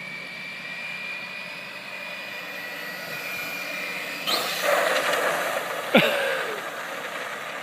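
Electric RC monster truck's motor giving a steady high whine, then louder running noise about four and a half seconds in, and a sharp knock about six seconds in with a quick falling whine.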